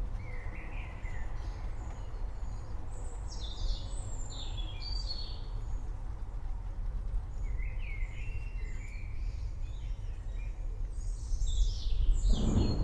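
Storm ambience: a steady low rumble with birds chirping in short falling notes, in several brief runs. Near the end, thunder breaks in louder.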